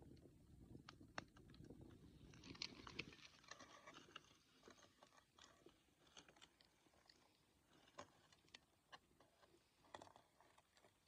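Wood fire crackling, with scattered sharp pops and a short burst of hissing crackle about two to three seconds in. A low rumble underneath stops about three seconds in.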